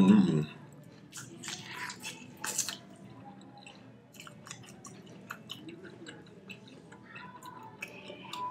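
Close-miked chewing of smoked tomahawk steak, with wet mouth noises and small clicks. It opens with a short hummed "mm" of the voice, the loudest sound here.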